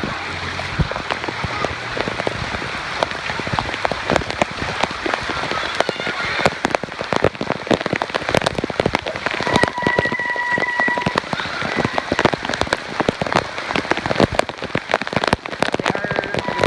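Heavy rain falling, with a dense patter of drops striking close by in many sharp taps.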